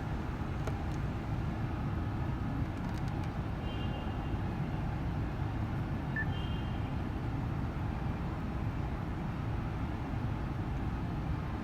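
Volkswagen Touareg 3.6 FSI engine idling with a steady low rumble, with a few faint short beeps about four and six seconds in.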